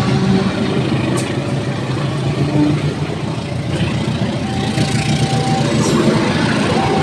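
A large engine running steadily with a deep, even drone.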